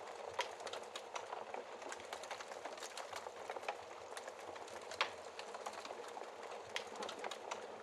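Wood fire in a fireplace crackling: a steady hiss with irregular sharp pops, the loudest about five seconds in.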